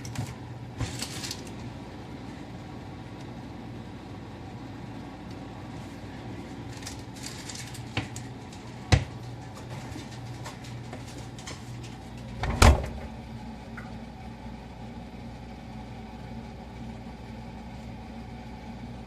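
A steady low hum runs throughout, broken by a few sharp knocks and clicks, the loudest about two-thirds of the way in.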